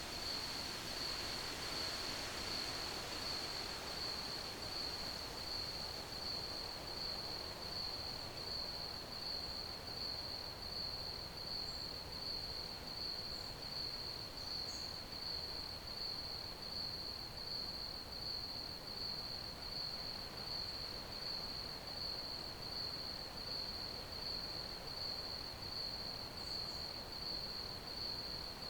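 Crickets chirping: one high, evenly pulsing chirp that keeps up without a break over a soft background hiss, with a few faint, higher chirps here and there.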